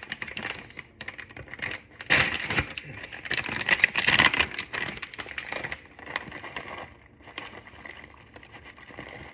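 Crisp crackling and rustling as shredded cheese is handled and sprinkled over tortilla chips, busiest between about two and five seconds in and then lighter.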